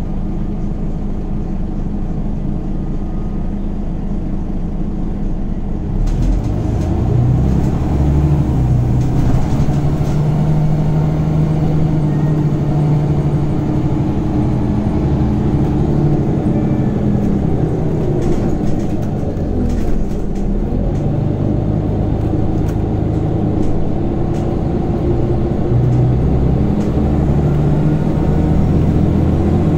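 Scania Omnicity city bus's diesel engine heard from on board, running steadily at low revs, then about six seconds in pulling away under power. The engine note climbs, drops back as the ZF Ecomat automatic gearbox changes up, and climbs again.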